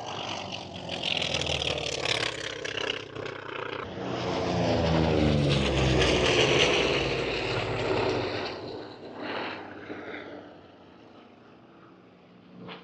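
An airplane's engine noise swells as it flies past, loudest about six seconds in, with the pitch falling as it passes. It then fades away into the distance.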